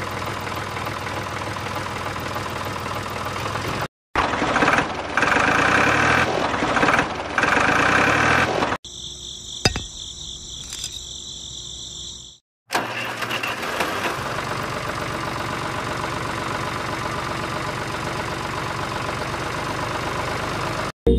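Small motor of a homemade miniature tractor and water pump running, in several short segments broken by sudden cuts, with a high steady whine in the middle section.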